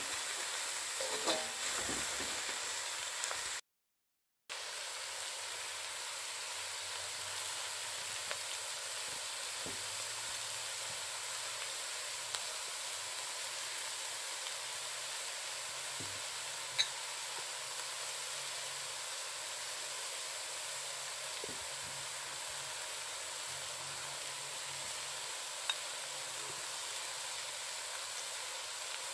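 Shredded vegetables sizzling steadily in a large metal wok as they are stir-fried, with a few sharp clicks of the metal ladle against the pan. The sizzle cuts out for under a second about four seconds in.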